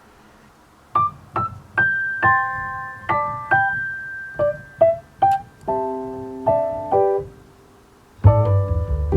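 Background piano music: after about a second of near quiet, single notes and small chords ring out and fade, pausing briefly before a fuller passage with a low bass comes in near the end.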